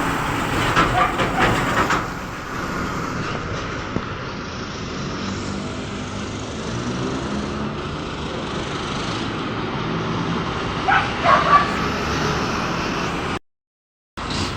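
Road traffic with a heavy vehicle's engine running past, and a dog barking a few times near the start and again about three-quarters of the way through. The sound cuts out completely for a moment near the end.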